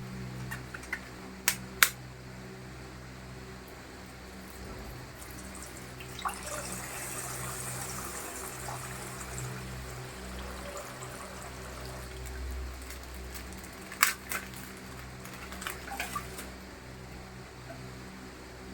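Coloured water pouring and draining out of a popped plastic bag, a soft splashing hiss that swells in the middle, with a few sharp crinkles and clicks of the plastic near the start and again later.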